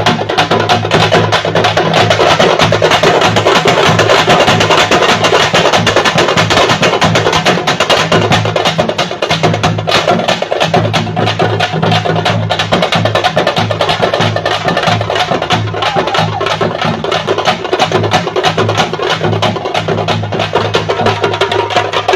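Thappu (parai) frame drums beaten with sticks in a fast, dense, driving rhythm of sharp strokes that never lets up.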